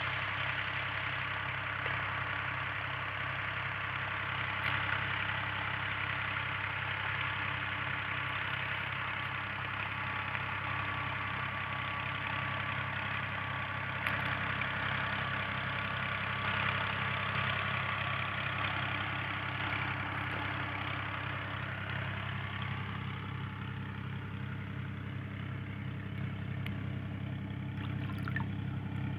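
Tractor engine running steadily at constant speed, driving a tubewell water pump, with a fast even low pulse and a steady hiss above it.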